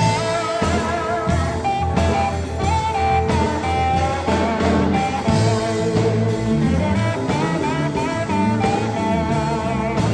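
A Sacred Steel gospel band playing live: a steel guitar carries a sliding, wavering melody over electric bass and drums.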